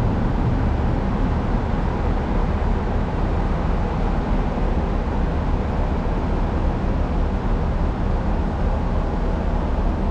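Steady low engine rumble with even running noise from a large vehicle, unchanging throughout.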